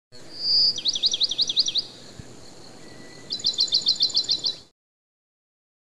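A songbird singing: a short high whistle, then a quick run of repeated high notes, and after a pause of about a second and a half a second, faster run of about ten notes, over faint steady background noise. It cuts off suddenly near the end.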